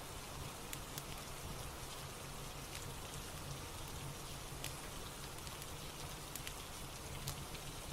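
Steady rain falling, with sharp crackles and pops from a wood fire every second or so.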